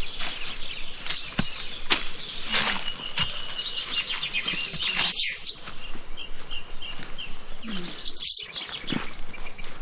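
Forest birds chirping and calling, with many short high notes and trills overlapping and scattered clicks among them. The sound drops out briefly twice, about halfway through and near the end.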